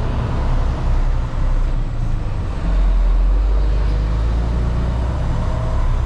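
Semi-truck diesel engine running with a steady low rumble as the rig pulls away.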